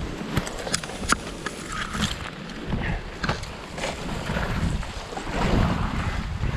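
Water splashing and rushing around a kayak moving down a river, with several sharp knocks in the first two seconds and wind buffeting the microphone.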